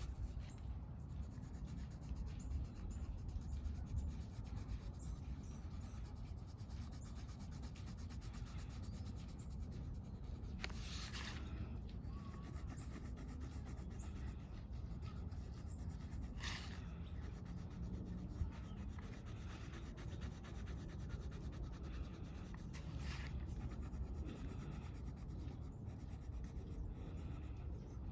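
Coloring on paper: a drawing tool rubbing and scratching back and forth in short strokes, with a few brief louder swishes, over a steady low outdoor rumble.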